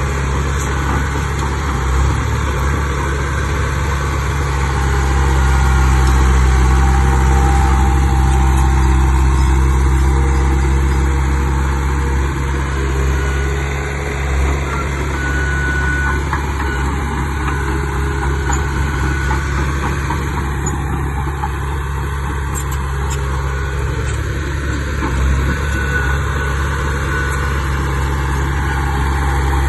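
Bulldozer's diesel engine running steadily under light load. It gets a little louder from about six to eleven seconds in.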